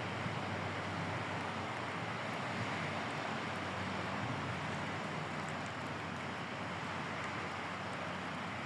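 ICE high-speed train rolling past, a steady even rush of wheel and air noise.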